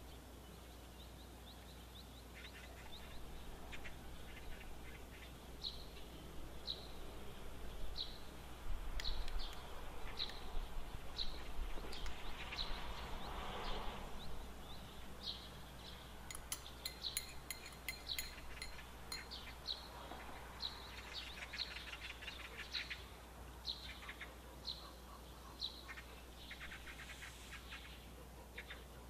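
A small bird chirping in short high notes about once a second, with a run of light metallic clicks partway through from a spoon against glass and the cake pan.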